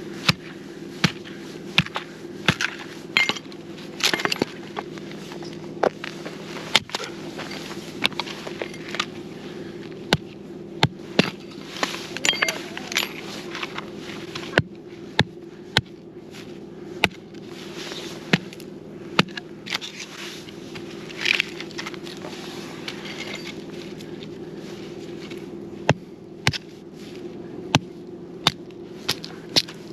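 Wood campfire burning, crackling with irregular sharp pops and snaps over a steady low hum.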